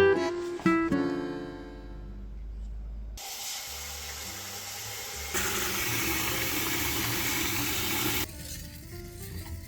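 Plucked acoustic guitar notes ring and fade. Then water runs from a tap into a sink for about five seconds, growing louder partway through, and stops suddenly.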